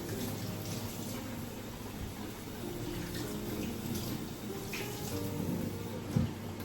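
Water running steadily from a kitchen tap into a sink, under soft background music with held notes, and a single knock about six seconds in.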